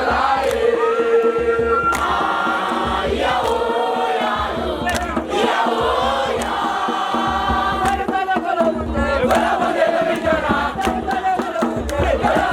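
A crowd of young voices singing and chanting together in chorus, a campfire song sung by a group.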